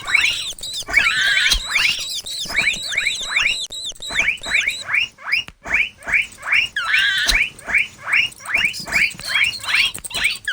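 Mouse squeak sound effects: rapid runs of short, high squeaks, several a second, with denser bursts of squealing about a second in and again about seven seconds in.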